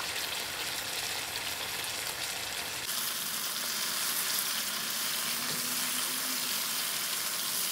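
Meat kababs frying in a thick tomato masala in a pan, a steady sizzle. About three seconds in the sizzle turns brighter and hissier as a spatula works through the sauce.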